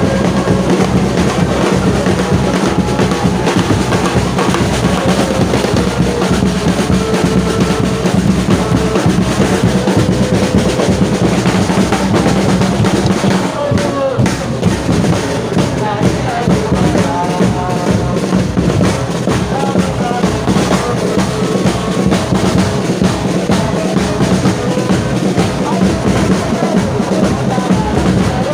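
Football stadium crowd of supporters singing and chanting together over drums beating a steady rhythm, loud and continuous.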